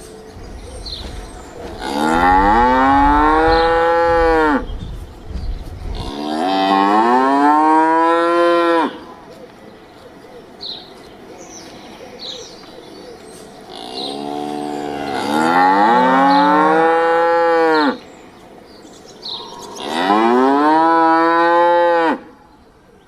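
A cow mooing four times. Each moo is a long call of about two to four seconds that rises and then falls in pitch.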